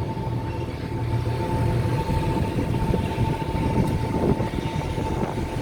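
Tour boat's engine running with a steady low rumble, a thin steady high tone held over it.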